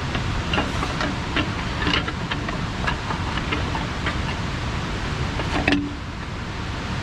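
Steady rushing of a waterfall, with scattered light clicks and knocks over it and a sharper knock near the end.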